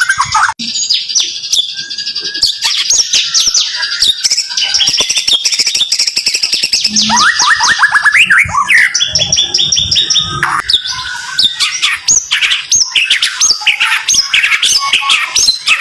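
White-rumped shama (murai batu) singing loud, dense runs of fast repeated rising notes, one run after another with only short breaks. This is the tight rapid-fire 'tembakan rapat' phrasing that keepers prize.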